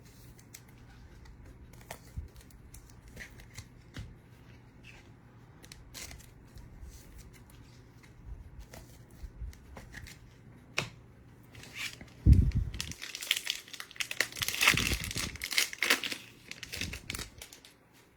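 Faint card-handling ticks, then about twelve seconds in, a trading card pack's foil wrapper torn open and crinkled, with loud crackling for several seconds.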